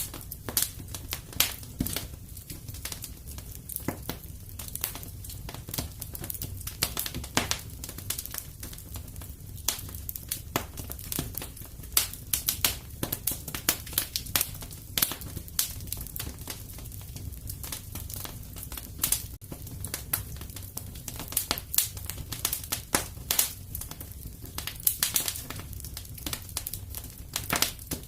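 Fire crackling in a fireplace: irregular sharp pops and snaps, a few louder than the rest, over a steady low rumble.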